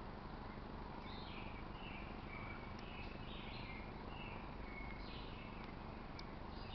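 Small birds chirping in series of short notes, several stepping down in pitch, with a few sharp clicks, over a steady low outdoor rumble.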